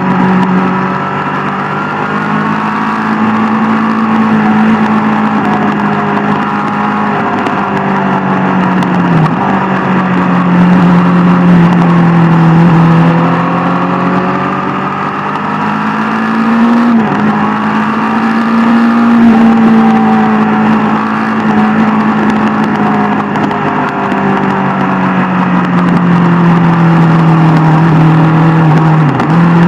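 Sport motorcycle engine running at steady cruising revs, its note drifting gently up and down, with a few brief dips in pitch, about a third of the way in, around halfway and near the end.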